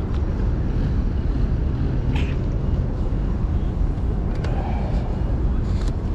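Strong gusty wind buffeting a chest-mounted camera's microphone, a dense low rumble throughout, with a few faint short sounds from the street over it.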